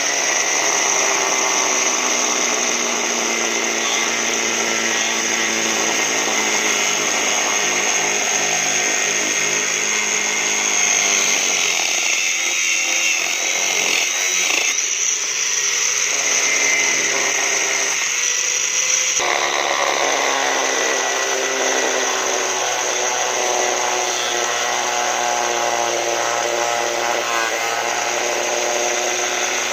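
Electric grinder running against steel: a steady high whine with a rasping grind whose pitch shifts as the load changes, altering abruptly about two-thirds of the way through.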